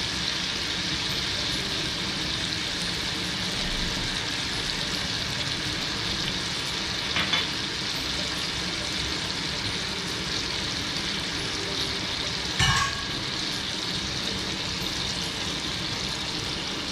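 Chicken legs sizzling in oil on a tawa griddle, a steady frying hiss. Two brief knocks break it, a small one about seven seconds in and a louder one near the three-quarter mark.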